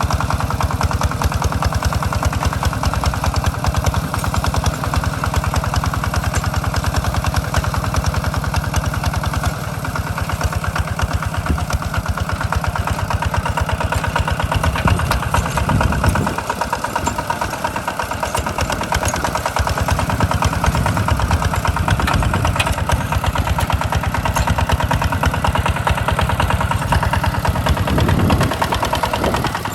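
Small tractor engine running steadily with a rapid, even firing beat; its low end drops away for a moment about halfway through, then comes back.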